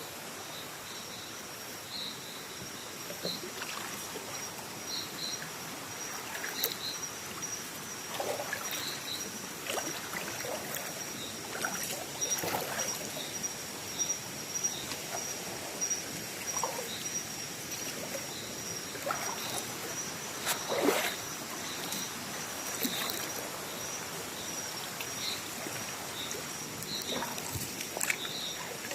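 Stream water sloshing and splashing in short irregular bursts, over a steady high-pitched insect drone and short chirps repeating about once a second.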